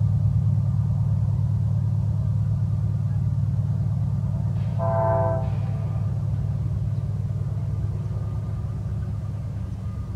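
CSX freight train's diesel locomotives rumbling steadily as they approach, with one short locomotive horn blast, about a second long, a little before halfway.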